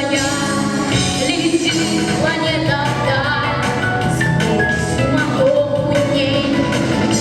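A female singer singing a song with vibrato over a full musical backing track.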